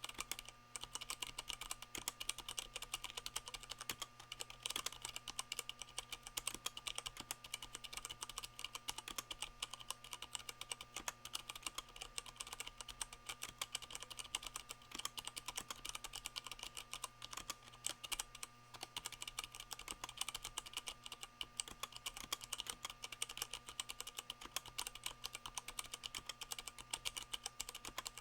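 Fast, continuous typing on a Leopold FC660M mechanical keyboard with Cherry MX Brown switches fitted with rubber O-rings, which damp each keycap's bottom-out. The result is a dense stream of soft clacks, with the board resting on a microfiber towel that keeps desk noise out.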